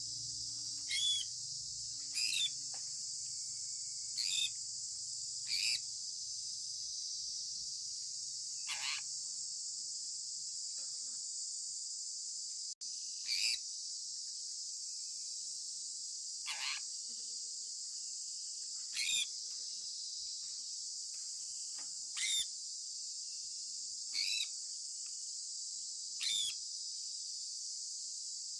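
A sun conure giving short, loud, downward-sliding chirps about every two to three seconds, two of them longer and lower, over a steady high-pitched hiss.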